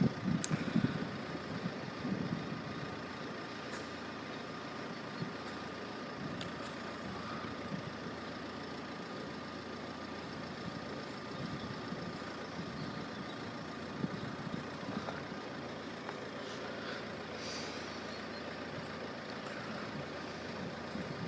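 Road vehicle engines idling in a steady low rumble, with a faint steady high hum, a little louder in the first couple of seconds.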